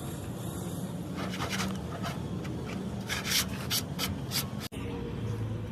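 A series of short rubbing or abrading strokes on a hard surface over a steady low hum, broken off by a sudden brief dropout near the end.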